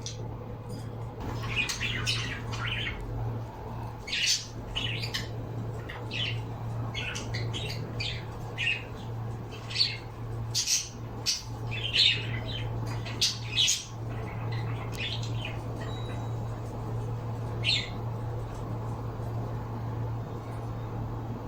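Pet birds squawking and chirping in short, sharp calls, thick in the first two-thirds and thinning out toward the end, over a steady low hum.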